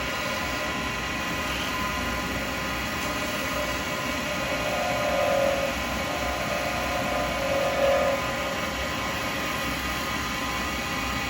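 Lathe running steadily with a hum of many fixed tones while a carbide chisel cuts a spinning acrylic pen blank; the cutting grows louder twice, around the middle and again about two-thirds through.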